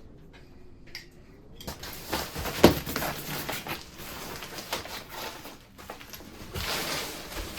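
Rustling and handling noise with many small clicks, starting about a second and a half in, with one sharp knock nearly three seconds in.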